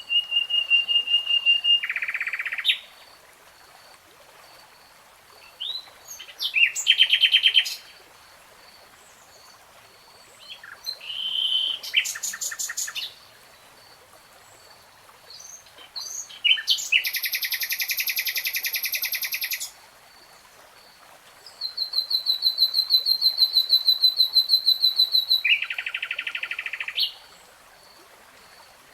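Common nightingale singing: a series of separate high phrases with short pauses between, including a steady trill, buzzy rattles, and a long run of rapid repeated notes in the second half.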